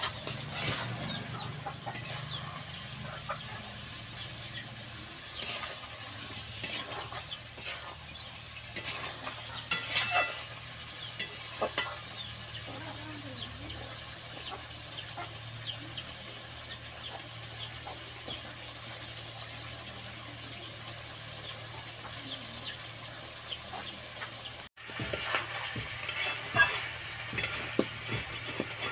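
Chicken and potato curry sizzling in a steel wok, with a metal spatula scraping and knocking against the pan at intervals. The stirring is heaviest in the first twelve seconds and again near the end.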